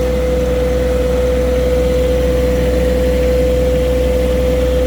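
Farm tractor engine running steadily, a low drone with a steady whine held on one pitch over it.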